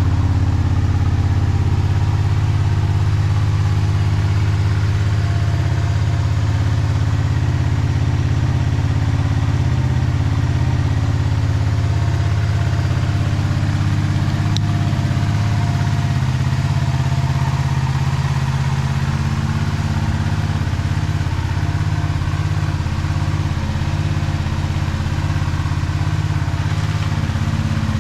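Honda VTR250's 250 cc V-twin idling steadily through a Mugen aftermarket muffler, a deep even exhaust note with no revving.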